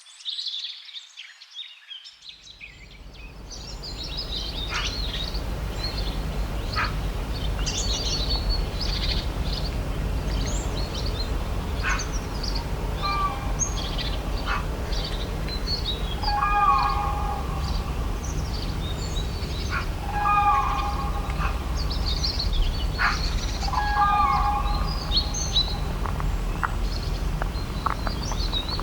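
Wild birds chirping and singing over a steady low rumble of outdoor ambience that comes in after a couple of seconds. A lower, pitched call repeats four times, about every three to four seconds, in the second half.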